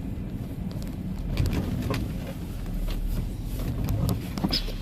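Pickup truck driving, heard from inside the cab: a steady low engine and road rumble, with a few scattered light clicks and knocks.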